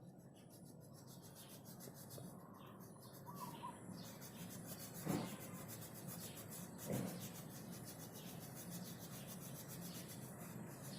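Colouring strokes rubbing back and forth on paper, a faint continuous scratchy scribbling, with two soft knocks about halfway through.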